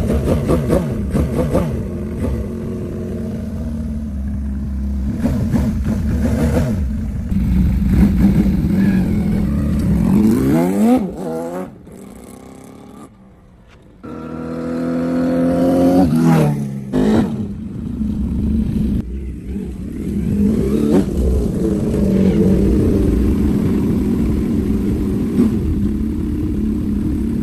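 Homemade four-cylinder engine running, its pitch rising and falling as it revs. About twelve seconds in, the sound cuts out for roughly two seconds, then the engine runs again.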